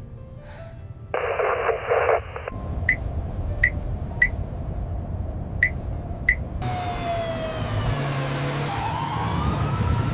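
A short burst of radio static, then five short sharp pips, then a siren wailing with rising and falling tones over a steady hiss and rumble from about two-thirds of the way in.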